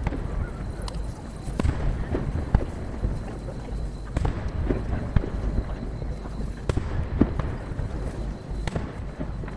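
Aerial firework shells bursting in quick succession, heard from about 800 m away and played at triple speed. Sharp bangs come every second or so, each trailing into an echoing rumble over a steady low boom.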